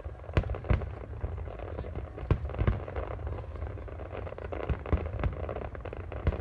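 Fireworks going off at a distance: a string of sharp booming bangs, about six strong ones, over a steady low rumble and crackle of shells bursting.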